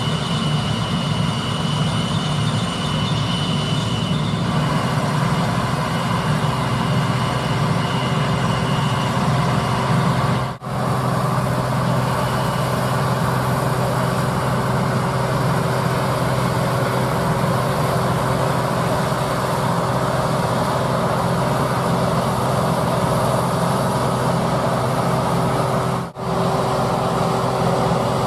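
Heavy diesel farm machinery at work, combine harvesters and grain-hauling tractors, giving a steady, loud engine drone with machine noise. The sound drops out briefly twice, about ten seconds in and near the end.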